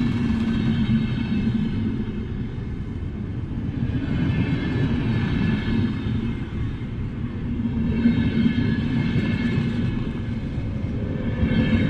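Electric train running: a steady low rumble with a high motor whine that swells and fades every few seconds.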